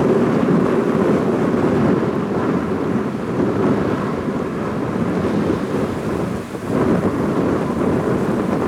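Steady, deep roar of a large jet airliner's engines as it passes, with a brief dip about six and a half seconds in.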